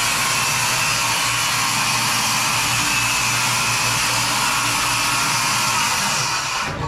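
A power tool's electric motor running steadily at full speed, a continuous whir over a low hum, cutting off abruptly near the end.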